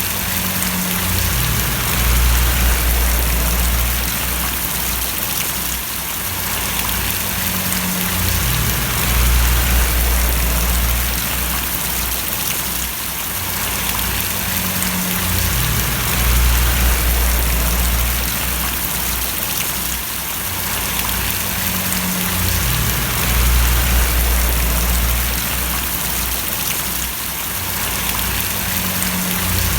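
Steady rain falling and splashing, with a deep low hum underneath that swells and fades about every seven seconds.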